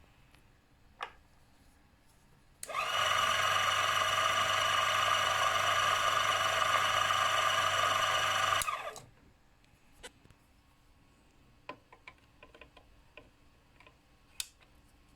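A small electric motor starts, runs steadily with an even whir for about six seconds, and stops. Scattered small clicks and taps of tools being handled come before and after it.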